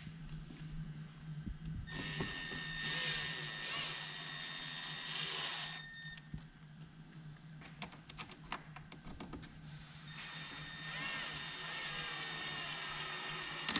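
Small hose clamps being tightened with a socket tool: a run of quick ratcheting clicks in the middle, with a long steady high electronic beep before and after, each lasting a few seconds and cutting off sharply.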